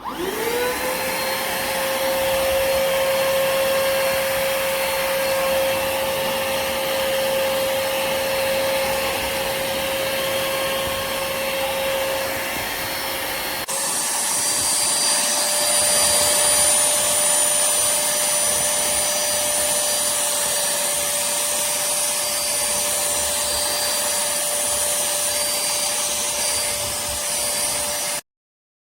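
Cordless handheld vacuum cleaner motor spinning up and running with a steady whine. About halfway through the pitch steps slightly higher and the hiss gets brighter, and the sound stops suddenly near the end.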